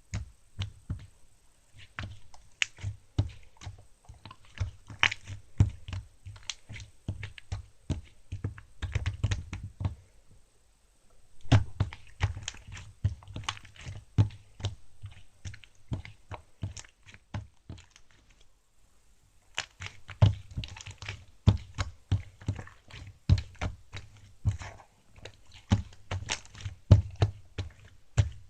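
Irregular close-up taps, clicks and dull thuds, like objects being handled or tapped on a surface, with brief lulls about ten seconds in and again near eighteen seconds.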